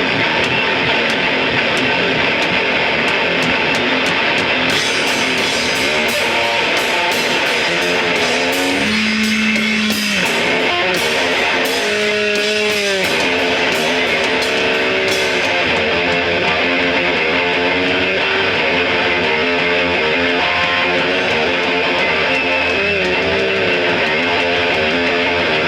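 Rock band playing loud electric guitar music live, with sharp hits from the drums for about ten seconds in the middle.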